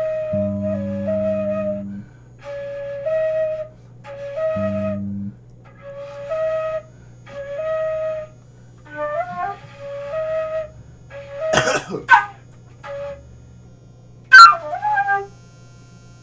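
A flute plays short, repeated phrases of a few notes each, with pauses between them. A low sustained note sounds under the flute twice in the first five seconds. Near the end come three loud, sharp, sudden sounds with a falling pitch.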